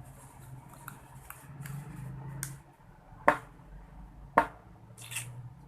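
Small handling clicks and ticks while lip tint is being applied, with two sharp clicks about a second apart in the middle, over a low steady hum.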